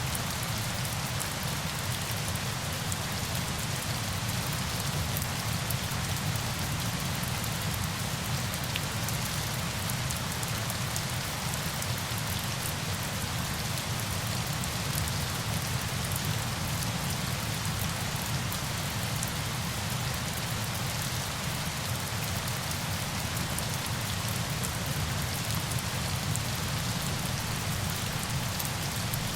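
Steady falling water, like heavy rain: a continuous, even hiss with a fine patter of drops and a low rumble underneath, unchanging throughout.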